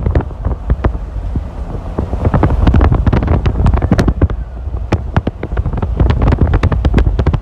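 Loud low rumble of wind and a moving vehicle, with many irregular sharp knocks and clicks scattered throughout.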